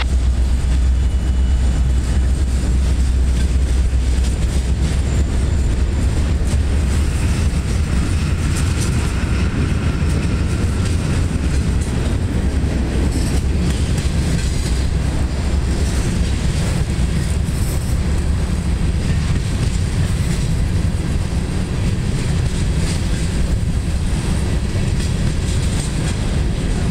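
Freight train cars (boxcars, centerbeam flatcars, covered hoppers and tank cars) rolling past: a steady rumble of steel wheels on rail, with scattered clicks over the rail joints.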